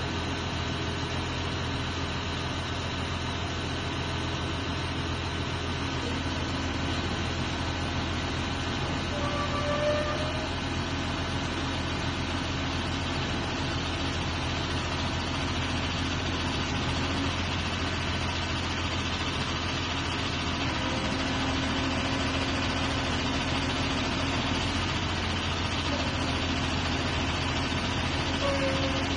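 Truck engine running steadily to power a truck-mounted crane, a low constant hum with a few brief faint whines now and then.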